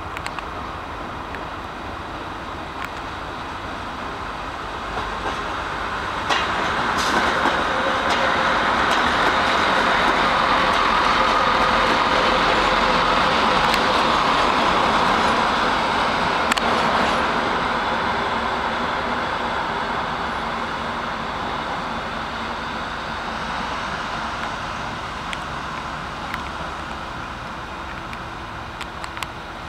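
A train running along the track: the rumble and rush build up over several seconds, stay loudest for a while and then slowly fade, with a few sharp clicks from the wheels on the rails.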